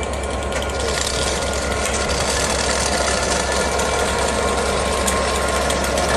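Class 67 diesel locomotive running as the train rolls slowly in, with a mechanical rattle of the train moving along the track, growing slightly louder.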